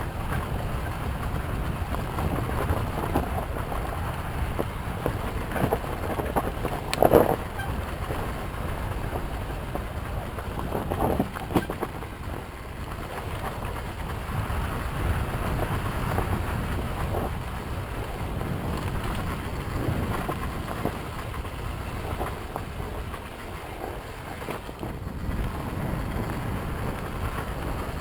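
Yamaha YZ250FX dirt bike's four-stroke single-cylinder engine running on a trail ride, with wind buffeting the microphone. There are a few louder knocks, about seven seconds in and again about eleven seconds in.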